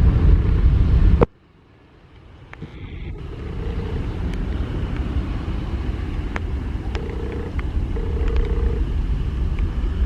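Airliner rumble, as during a takeoff roll, loud at first, cut off abruptly about a second in, then building back up and holding steady, with a faint hum coming and going and a few light clicks.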